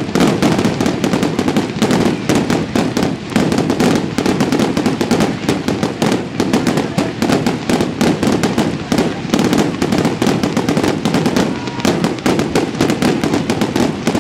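Fireworks display going off in a dense, unbroken barrage: rapid bangs, many a second, with no pause.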